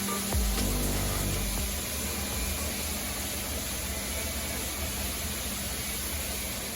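Floor scrubber running: a steady motor noise with a low hum underneath.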